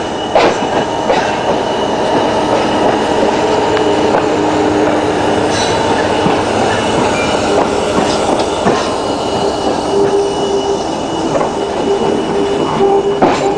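A diesel shunting locomotive moves a rake of flat wagons and passenger coaches past close by, with a steady loud rumble of wheels on rail, scattered clicks over the rail joints, and a wavering wheel squeal that grows strongest near the end. This is a shunting move, splitting a train for loading onto a train ferry.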